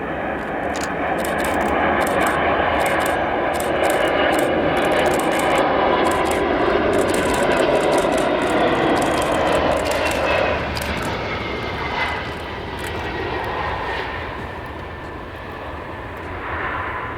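Boeing 767-336ER's Rolls-Royce RB211-524H turbofans on landing, loud through the first half, then fading after about ten seconds. A whine falls in pitch as the jet passes.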